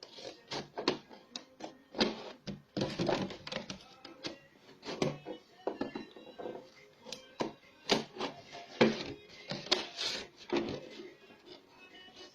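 Scissors snipping and cutting through a plastic milk carton, a run of irregular sharp clicks and crinkles as the carton is handled, with faint background music underneath.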